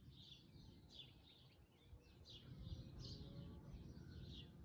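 Faint birds chirping: short, falling chirps repeating irregularly, about one or two a second, over a low background rumble.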